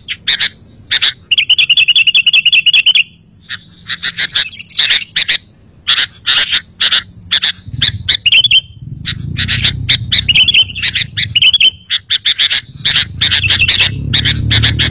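Sooty-headed bulbul (kutilang) calling: a rapid string of short, sharp chirps with a fast, even trill about a second and a half in. A low rumble sits under the calls in the second half.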